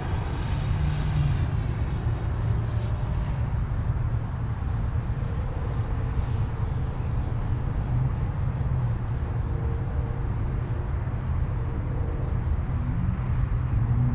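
Electric ducted-fan motor of an E-flite F-18 Blue Angel 80 mm RC jet in flight: a thin high fan whine that drops in pitch about three and a half seconds in, over a steady low rumble.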